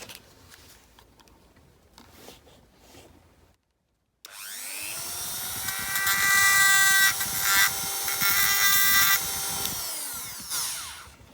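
Small hand-held power drill spinning up, running with a steady whine for about six seconds, then winding down, used on a die-cast model's door handle fixing. Faint handling clicks come before it.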